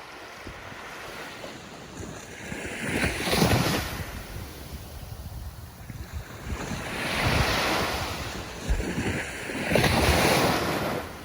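Ocean waves breaking and washing in: three surges a few seconds apart, each swelling and falling away, the first, about three seconds in, slightly the loudest.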